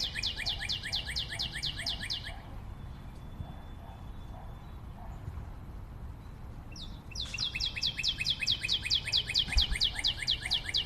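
A songbird singing a fast trill of repeated, quickly falling high notes, about seven a second. It sings once at the start, stops, and starts the same trill again about seven seconds in.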